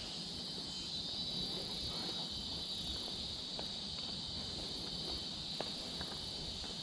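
Steady, high-pitched drone of an insect chorus, with scattered faint clicks beneath it.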